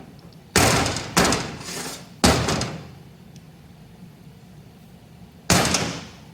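Four sharp knocks, each ringing out briefly: three close together in the first two and a half seconds and a last one near the end. They come from work on lathe compound parts.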